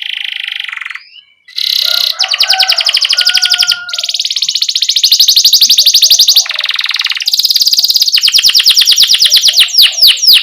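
Canary singing long, very fast rolling trills of rapidly repeated notes, broken by short pauses, then a string of quick sweeping 'cuit' chirps near the end.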